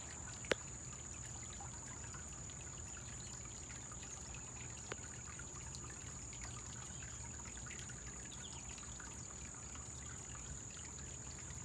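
Small koi-pond waterfall trickling steadily. A sharp click about half a second in, and a fainter one about five seconds in.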